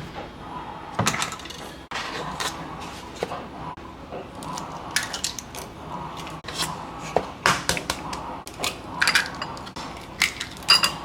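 Irregular knocks, taps and clatter in a small room, with a faint steady background.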